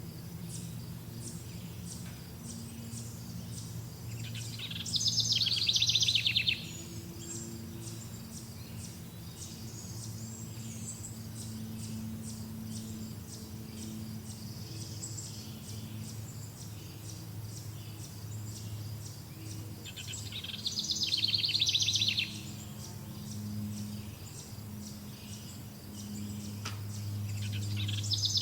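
A songbird sings a loud, rapid trilled phrase of about two seconds, twice, and starts a third right at the end. Under it runs a steady high chirping of insects and a low steady hum.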